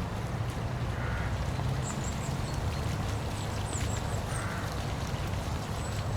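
Steady rush of falling water from a waterfall, with a few faint short bird calls and high chirps over it.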